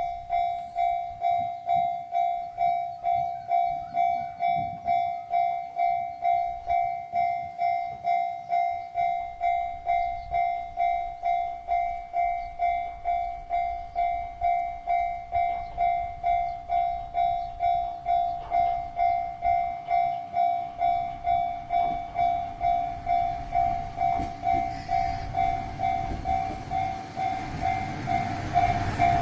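Railway level-crossing warning bell ringing steadily at a little under two dings a second as a train approaches the station. In the last several seconds the rumble of the arriving train, the Sunny-go railcar coupled with the trolley train, rises beneath it.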